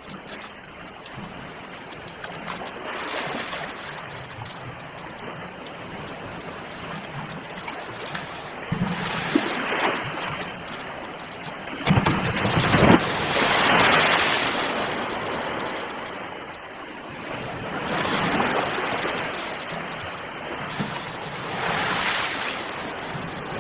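Ocean waves breaking and washing in, the rush of water swelling and fading every four seconds or so, with the biggest surge about halfway through.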